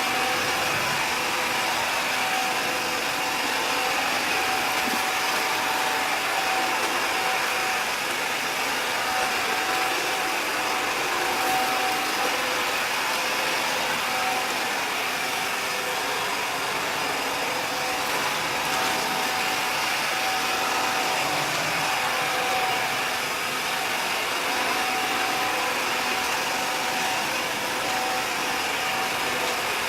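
Robot vacuum cleaners running steadily, a constant rushing hiss of the suction fans with a thin steady whine over it, as they sweep up rolled oats and powder.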